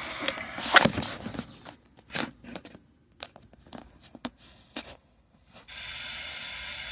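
A scanner radio's open-channel hiss cuts out about a second in, leaving a run of close crinkling, crackling and clicking sounds, and the hiss comes back near the end.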